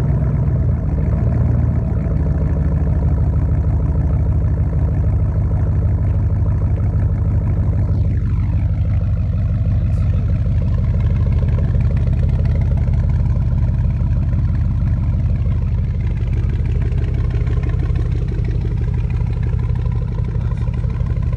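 Loud exhaust of a 2006 Chevrolet Silverado's 5.3 Vortec V8 idling steadily through true dual 3-inch straight pipes.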